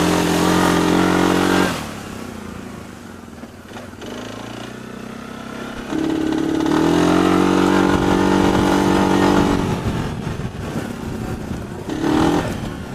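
Mud-bog racing engine revving hard at high throttle, cutting off just under two seconds in. A second long run of high revs starts about six seconds in, rises in pitch, and drops away about ten seconds in, with a short blip of revs near the end.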